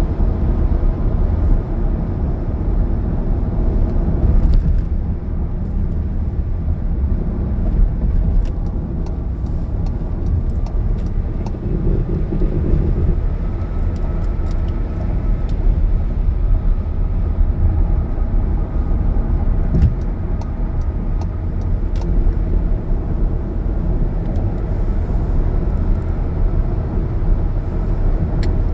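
A car driving at highway speed: steady engine and tyre noise on the road.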